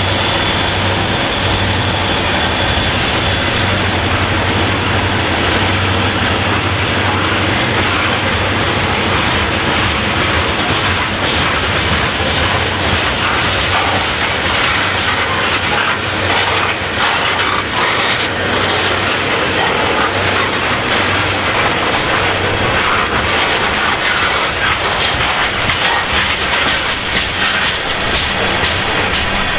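Freight train rolling past: the cars' wheels clicking over the rail joints, over a steady rumble.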